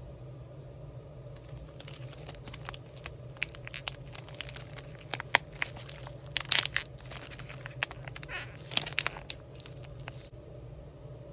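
Crunchy crackling from a hard-textured DNA cloud sugar ball fidget toy being squeezed in the hands: a dense run of irregular crackles and clicks that starts about a second and a half in and stops near the end, with the sharpest crunches in the middle.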